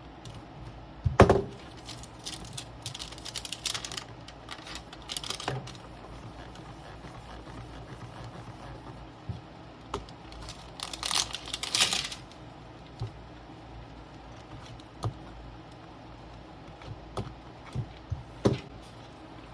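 Small clicks and taps of workbench handling, with one louder knock about a second in, and short crinkling rustles of plastic film twice, around three to five seconds in and again near twelve seconds.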